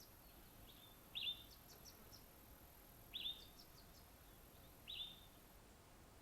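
A wild bird calling: three short, sharp notes that drop in pitch, about two seconds apart, with faint quick high ticks between them.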